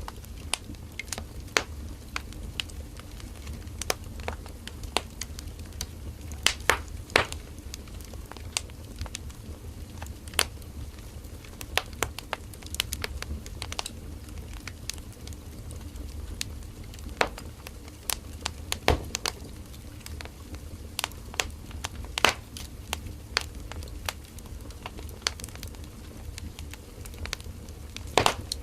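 Burning firewood crackling and popping: irregular sharp snaps, a few louder pops, over a low steady rumble of the flames.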